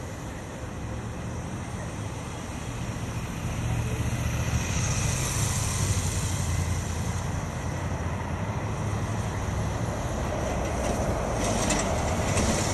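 Wind on the microphone and road and traffic noise from a bicycle riding through city streets. It gets louder about four seconds in, with a high hiss around five to seven seconds and a few short clicks or rattles near the end.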